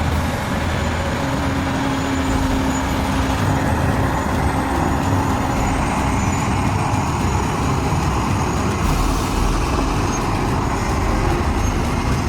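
Heavy truck running steadily, a dense low engine rumble mixed with road noise. A steady tone sounds over it for a couple of seconds, starting about a second in.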